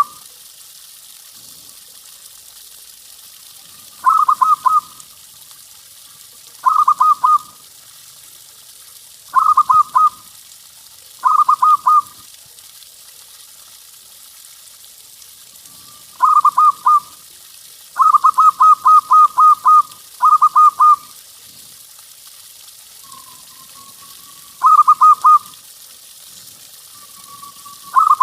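Zebra dove (perkutut) cooing: short phrases of quick, rapidly repeated coo notes, coming every few seconds, with one longer run of about eight notes past the middle.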